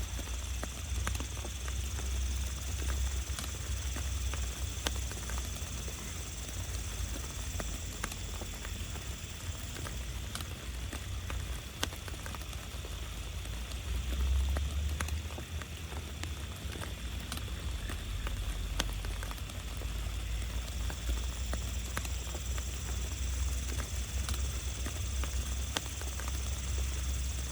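Heavy rain falling on a camping tarp: irregular drops tapping on the fabric over a steady low rumble.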